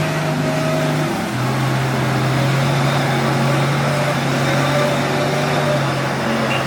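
Off-road 4x4's engine running at steady revs, its hum dropping a little in pitch about a second in and then holding steady.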